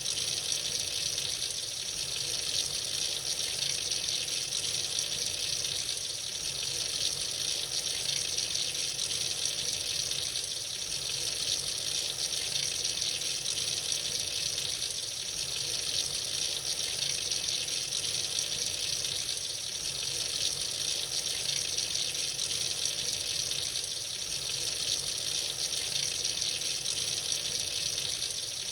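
Tap running freely into a sink, a steady splashing stream of water.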